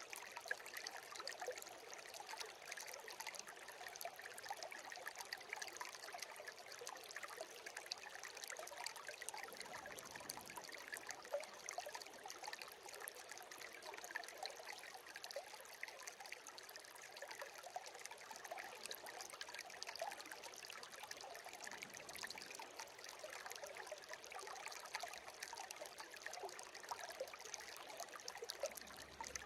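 A shallow brook babbling steadily: a constant rippling trickle full of small splashes, with little deep rumble.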